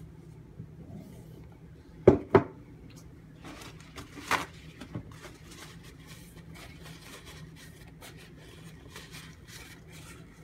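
Knife blade stroked along a leather strop mounted on a wooden stake, a run of soft, repeated rubbing strokes honing the edge. Two sharp knocks come about two seconds in and another about four seconds in.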